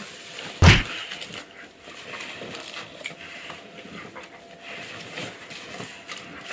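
Snow crunching in irregular small crunches, with one loud thump about two-thirds of a second in.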